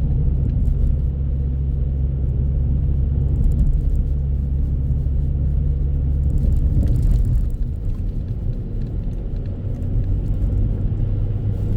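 Low, steady rumble of a car on the move, its drone changing about seven seconds in.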